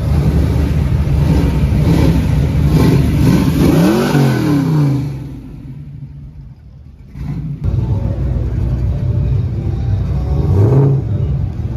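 Classic Ford Mustang fastback's engine running with a deep rumble, revved up and back down about four seconds in. The engine sound fades about five seconds in, then engine noise comes back abruptly just after seven seconds.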